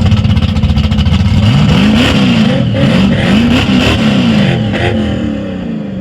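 Performance car engine revving hard and accelerating away, its pitch sweeping up and dropping back several times before the sound fades near the end.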